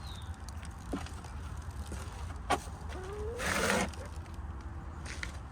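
Backyard hens giving a few short, soft calls, with a sharp tap about two and a half seconds in and a brief rustling burst just after, the loudest moment.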